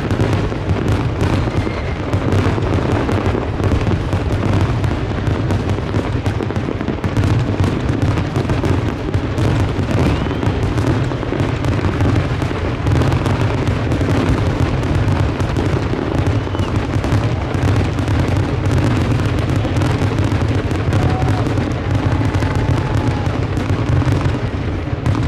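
Fireworks display: a dense, continuous barrage of bursts and booms, with a steady low rumble that never drops off.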